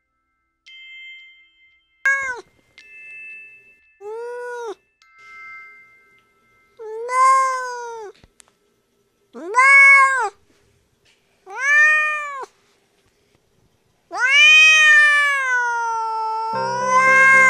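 Oriental cat meowing six times, each meow rising and falling in pitch; the last one is long and drawn out.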